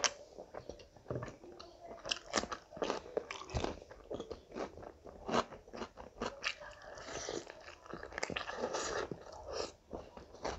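Close-miked eating sounds: a mouthful of rice and curry being chewed, with many short sharp mouth clicks throughout.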